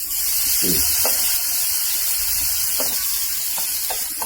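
Beef burger patty sizzling in its own fat in a hot pan: a steady frying hiss with scattered small pops and crackles.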